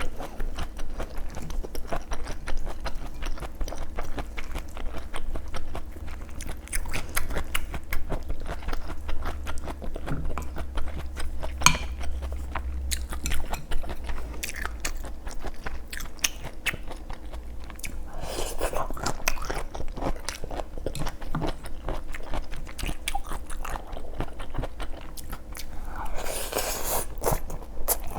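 A person chewing and crunching food close to the microphone, with many small wet clicks of the mouth. Two louder, hissing stretches come about two-thirds of the way through and near the end.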